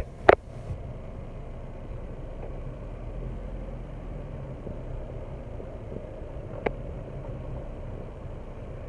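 A Jeep's engine running at low speed, heard from inside the cabin as a steady low hum. A sharp knock comes right at the start, and a single click about seven seconds in.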